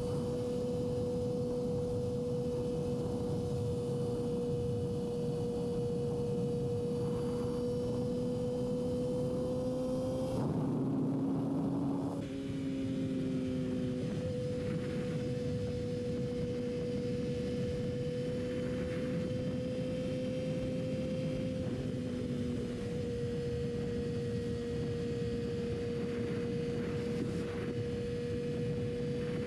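Yamaha R6's inline-four engine running at steady high revs while riding, a steady, almost pure engine note over a hiss of wind. About ten seconds in the note rises a little, then drops with a brief dip in loudness, and it shifts slightly again a little past twenty seconds.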